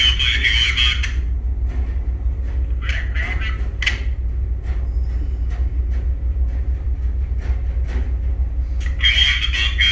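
Towboat engine running with a steady low rumble, mixed with scattered knocks and rattles. A high warbling squawk comes in briefly at the start, about three seconds in, and again near the end.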